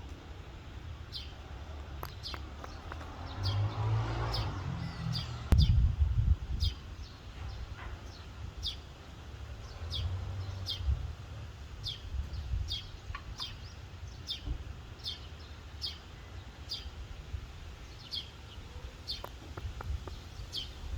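A small bird chirping over and over, short high chirps about one or two a second, over a low uneven rumble that swells for a few seconds near the start.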